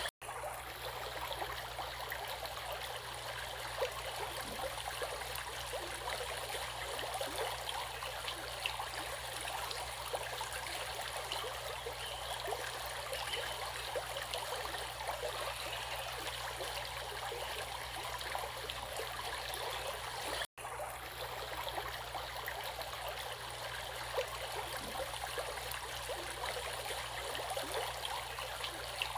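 Running water of a stream, flowing and babbling steadily with a dense texture of small splashes. The sound drops out for an instant twice, just after the start and about two-thirds of the way through.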